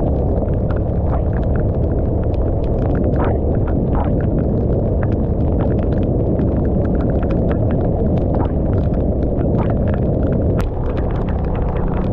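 Loud wind rumble on the microphone from a riding scooter, with raindrops striking the camera in many sharp irregular clicks. The scooter's engine hum sits underneath and changes pitch about ten and a half seconds in.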